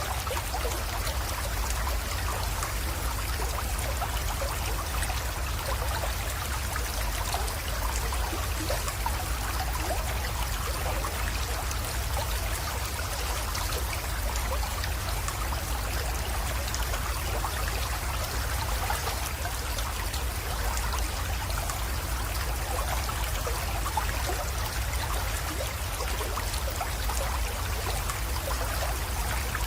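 Small creek flowing steadily, water trickling and splashing, with a low steady rumble underneath.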